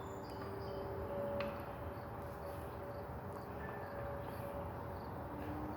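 Faint outdoor ambience: a steady low background hiss with faint high chirps and a faint steady hum.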